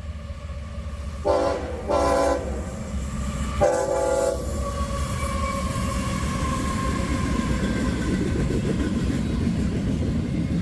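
Diesel locomotive air horn on a CSX intermodal freight train sounding three blasts, the last the longest. It is followed by the steady rumble of the train rolling past.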